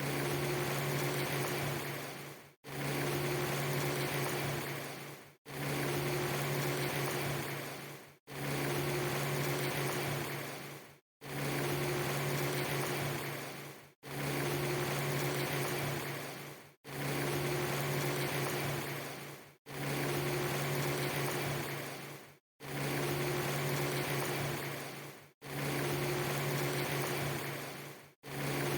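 Recorded rain ambience: a steady hiss of rain over a low hum, played as a short loop. It repeats about every three seconds, each pass fading out and cutting to silence for an instant before starting again.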